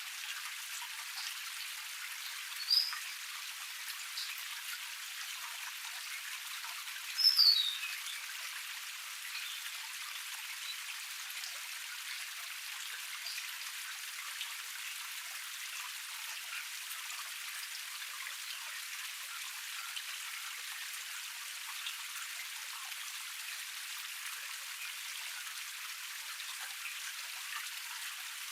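A small forest cascade splashing and trickling steadily, heard as an even, bright hiss with no low rumble. A bird gives a short call about three seconds in and a louder call falling in pitch about seven seconds in.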